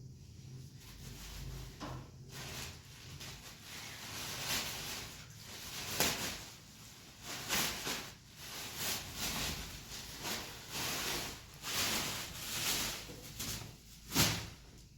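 Repeated scraping and rustling strokes of things being handled or moved, with a sharper knock about six seconds in and another near the end.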